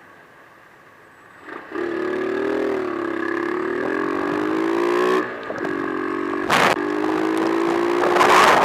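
A vehicle engine starts up after a quiet stretch and runs with a steady pitched hum that wavers and slowly rises. It breaks off briefly about halfway through and then resumes. There is a sharp knock a little later, and a noisy hiss builds near the end.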